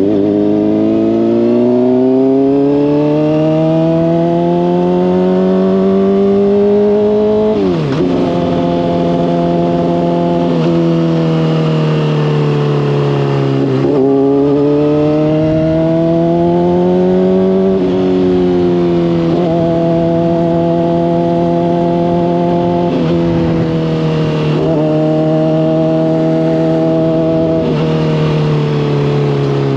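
Honda CBR600RR inline-four with a slip-on exhaust, riding at steady moderate revs. The engine note climbs for about seven seconds, then drops sharply on a gear change about eight seconds in. It rises and falls with the throttle, with several more quick gear changes, and wind rushes over the helmet-mounted microphone throughout.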